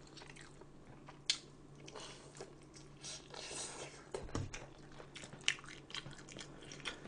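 A person chewing and biting food close to the microphone, with irregular small wet smacks and clicks.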